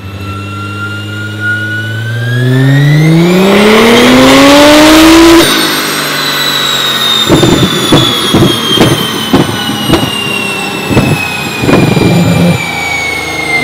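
Nissan GT-R's 3.8-litre twin-turbo V6 pulling at full throttle on a chassis dyno, its pitch climbing steadily for about five seconds before the throttle is cut sharply. A thin whine then falls slowly as the car coasts down, with irregular pops from about seven seconds in.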